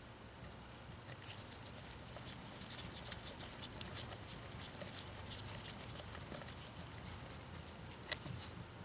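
Faint, irregular small clicks and taps of a hex bit and metal parts being handled while a bolt is worked out of a string trimmer's exhaust spark arrestor, with one sharper click near the end.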